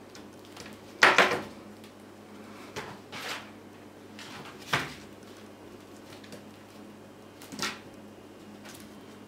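Siberian kittens playing with a toy, making a few short knocks and clatters. The loudest comes about a second in, with smaller ones near three, five and seven and a half seconds.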